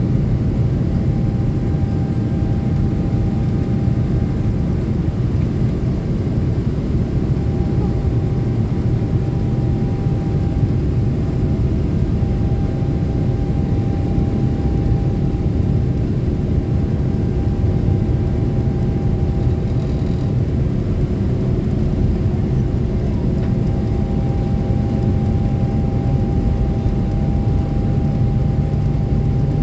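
Airliner's jet engines and airflow heard inside the passenger cabin during take-off: a loud, steady, deep rumble with a faint steady whine above it.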